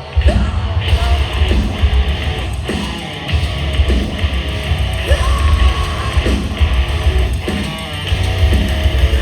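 Live heavy metal band playing an instrumental passage with heavy distorted electric guitars, bass and pounding drums. Short rising guitar squeals recur about once a second.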